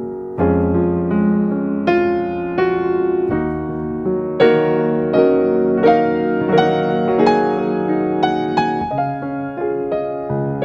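Gentle background piano music: notes and chords struck a little under once a second over held lower notes.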